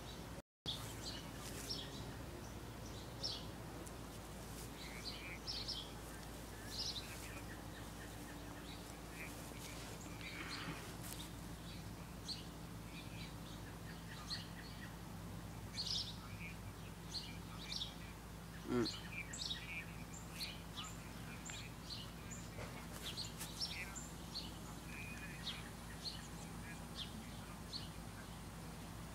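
Small birds chirping, short high chirps scattered throughout, over a steady low hum.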